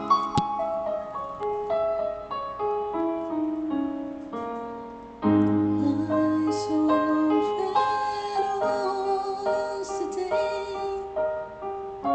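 Piano-led instrumental introduction to a slow ballad, played as a run of single held notes that fade softer. About five seconds in, a fuller, louder accompaniment with deep low notes comes in.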